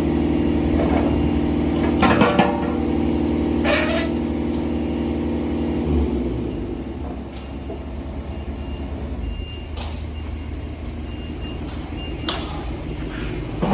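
JCB 16C-1 mini excavator's diesel engine running steadily, with a few sharp knocks and clanks from the machine working. About six seconds in, the engine drops to a lower, quieter running.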